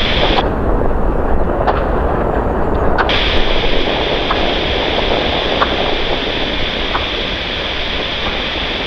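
Jet airliner's engines at takeoff thrust: a loud, steady rumble with a crackling edge.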